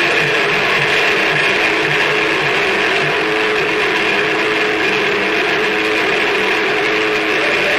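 Harsh noise music: a loud, dense, unbroken wall of noise with a few held droning tones running through it, and a fluttering low pulse in the first few seconds.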